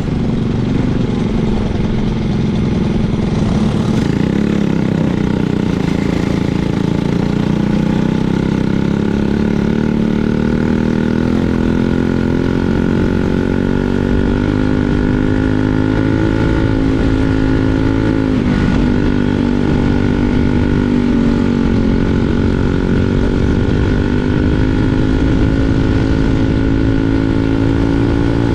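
Kart's single-cylinder 206 Super Stock four-stroke engine running under load. Its pitch rises and falls with the throttle, with dips near 4 and 18 seconds in.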